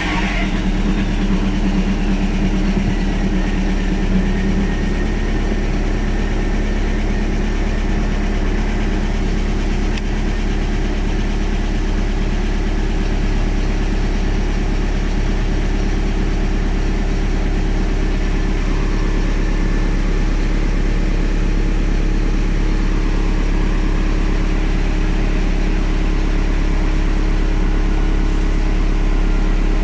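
Volkswagen Bora's 1.9 TDI (ALH) four-cylinder turbodiesel idling steadily just after a cold start. A faint high whine falls in pitch over the first few seconds and then holds; the power-steering pump is described as faulty.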